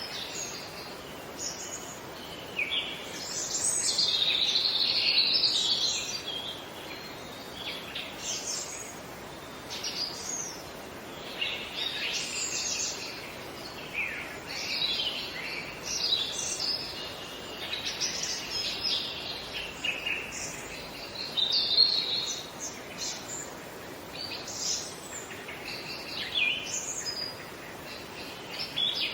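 Several birds singing and calling, many short chirps and trills overlapping, with a busier burst of song about four seconds in, over a faint steady background hiss.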